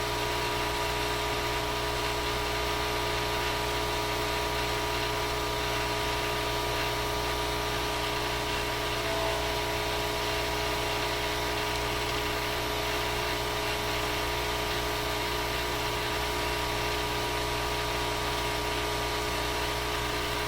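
A small motor running steadily: a constant hum with several fixed tones over a hiss.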